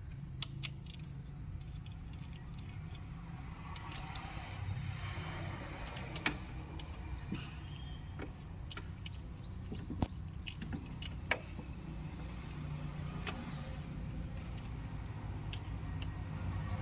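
Scattered sharp metallic clicks and clinks of tools and engine parts being handled, over a steady low rumble of background traffic.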